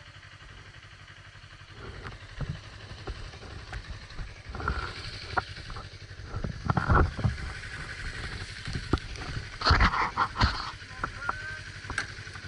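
Suzuki GW250 parallel-twin motorcycle engine running steadily, with a series of knocks and rustles close to the helmet-mounted microphone starting about two seconds in, loudest around seven and ten seconds in.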